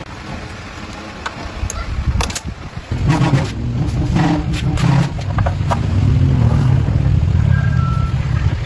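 Engine of a restored 1960s Honda external-clutch motorbike starting about three seconds in and then running steadily, with a few clicks and knocks before it catches.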